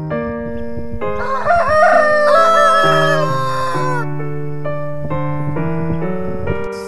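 A rooster crowing once, about a second in, a single call lasting about two seconds, over background piano music.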